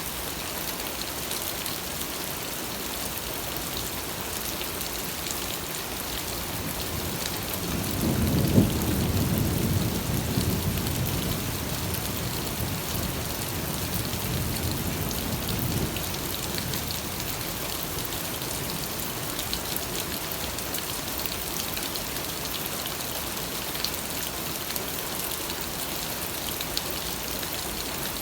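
Steady rain falling, with a low rumble of thunder that swells about eight seconds in, peaks sharply and dies away over several seconds.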